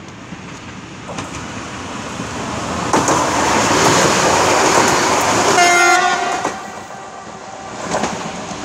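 EN98 electric multiple unit passing close by at speed: a rush of wheel and rail noise builds up, peaks as the train goes by, then fades. A short horn blast sounds a little over halfway through.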